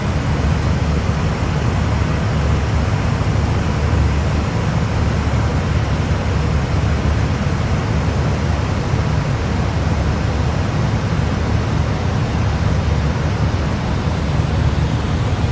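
Steady rushing noise inside an Airbus A321 flight deck in flight: airflow over the airliner with engine and air-conditioning hum, deepest and loudest in the low end.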